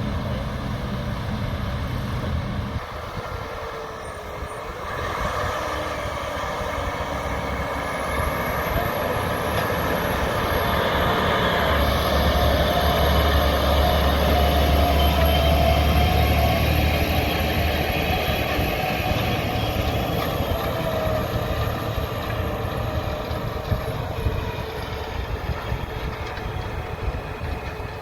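A large self-propelled farm sprayer's diesel engine running as it drives past. The noise grows louder toward the middle and then slowly fades.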